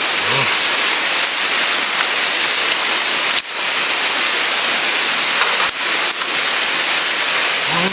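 Steady rush of a river flowing over rocks, with a constant thin high tone above it.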